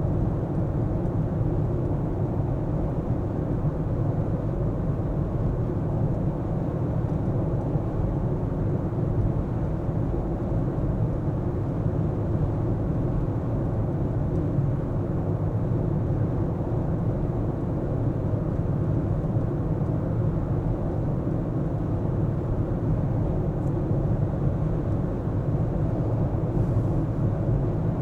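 A car driving: steady low rumble of engine and tyres on the road, with no sudden events.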